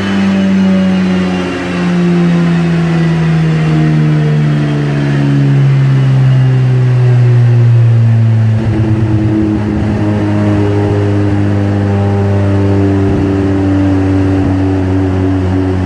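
Mazda RX-7 FD's 13B twin-rotor engine, set up with non-sequential twin turbos, running with its pitch falling slowly for about eight seconds as it winds down. It then settles to a steady, lower, choppier note.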